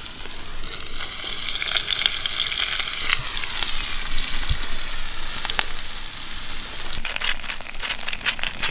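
Thick-cut chips frying in hot oil in a frying pan over a campfire, sizzling steadily, with sharper crackles and pops from about seven seconds in.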